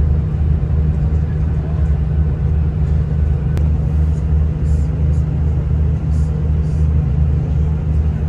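Diesel passenger train heard from inside the carriage while moving through a station: a steady low engine and running hum, with a single sharp click about three and a half seconds in.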